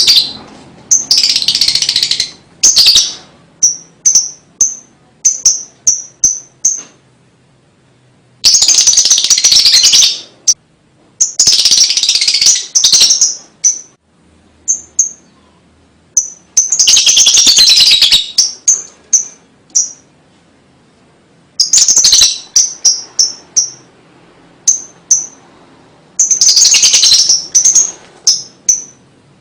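A lovebird calling in long, shrill, chattering bursts of a second or two, alternating with quick runs of short high chirps, with brief pauses between phrases.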